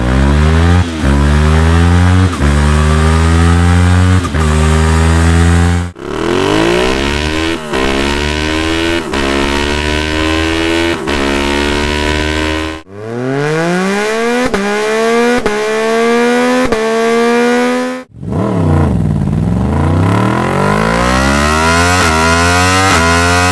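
Yamaha MT-series motorcycles accelerating hard through the gears: the engine note climbs and drops back at each upshift, about every second or two. There are four separate clips with abrupt cuts between them; the last opens with the engine slowing and then climbing again.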